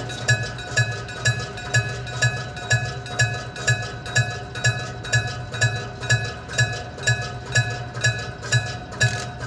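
Electric-bell level-crossing warning bell: a solenoid hammer strikes the gong about twice a second in a steady, even rhythm, each strike ringing on. It is the crossing's warning that a train is approaching.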